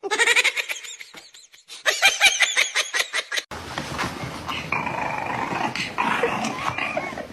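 A dog vocalising: a quick run of short, high barks, then, after an abrupt cut, more dog sounds, growling, over a noisier background.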